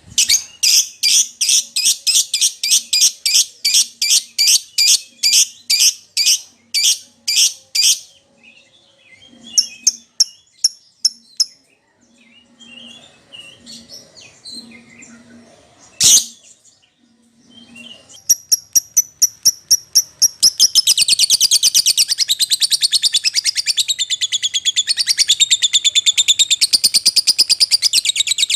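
Lovebird calling: a run of sharp, high chirps about three a second, then scattered calls and soft chatter. A sharp click about halfway through, then a long, rapid, unbroken chattering trill through the last several seconds.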